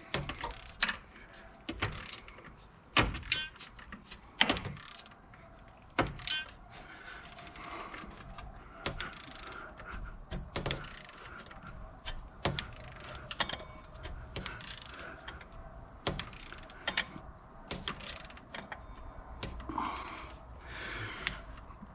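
Hand tools and metal parts clinking and knocking at irregular intervals during work on an engine's water pump and its bolts.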